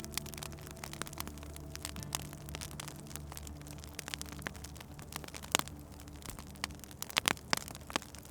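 Wood fire crackling in a fireplace: irregular sharp pops and snaps, a few louder ones about five and a half and seven seconds in, over a soft low sustained musical drone.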